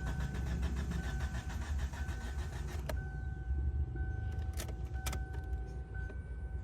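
A car engine cranking on its starter without firing: a no-start. Over it, a steady electronic warning beep sounds on and off about once a second, and there are a few sharp clicks.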